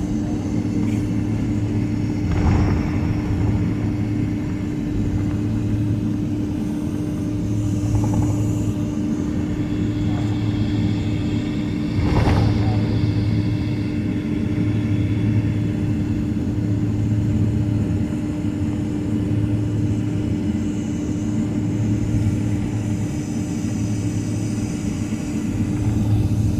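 Boeing 767-300ER cabin noise while taxiing: a steady engine and air-system hum with a slow throbbing beat over a low rumble. Two brief thumps, about two and a half seconds in and again about twelve seconds in, are heard.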